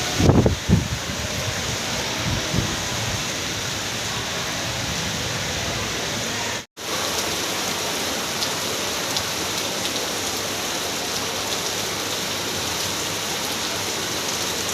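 Heavy rain falling steadily, an even hiss, with a few low thumps in the first three seconds and a brief drop to silence about seven seconds in.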